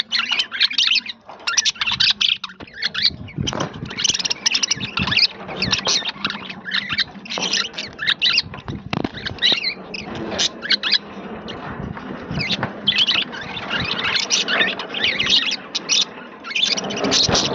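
A colony of budgerigars chattering and warbling, many quick overlapping chirps going on without a break, with a few sharp taps among them.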